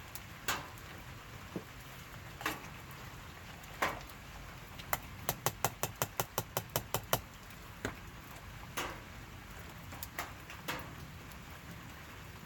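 A spoon clinking and knocking against a metal pot of baked beans as the spices are stirred in: single sharp knocks every second or two, and a quick run of about a dozen taps in the middle, around five a second.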